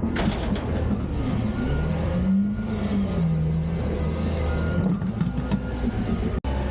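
Autocar/Heil Freedom front-loader garbage truck's diesel engine running, revving up and falling back once in the middle.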